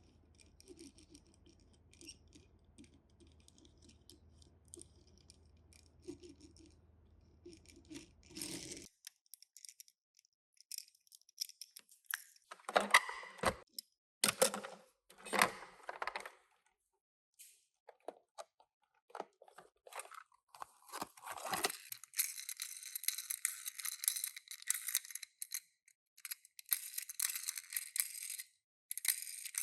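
Small toy packaging being handled and opened: scattered small clicks and rustles, then, from about two-thirds of the way in, a steady dense crinkling and tearing of box or wrapper.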